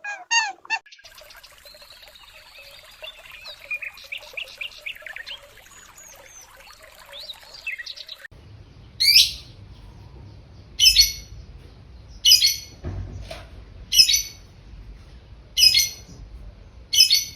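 Birds calling: faint, busy twittering at first, then from about halfway a single loud, sharp, high call repeated six times, roughly every one and a half seconds, over an outdoor rumble.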